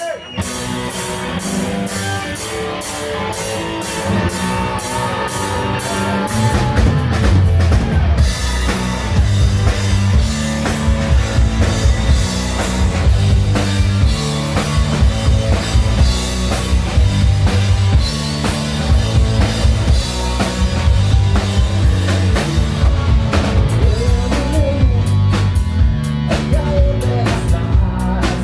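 Hard rock band playing live, with a drum kit keeping a steady beat under guitar and bass. The music grows fuller and louder about six seconds in.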